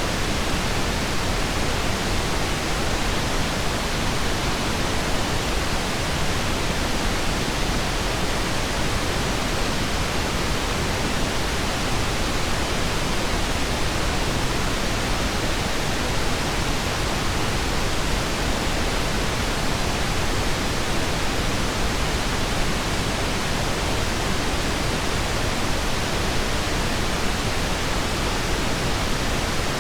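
Steady pink noise: an even, unchanging hiss with no tones or ticks.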